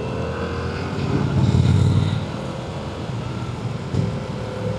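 Motorcycle engine running under way, heard from the rider's bike along with wind noise. It swells briefly about a second and a half in, then settles lower.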